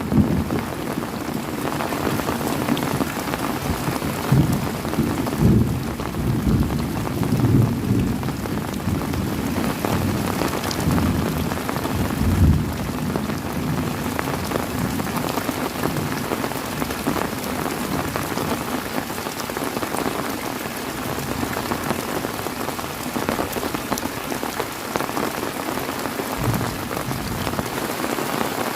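Heavy rain pouring steadily, with low rolling thunder rumbling through the first half, loudest a little before the middle.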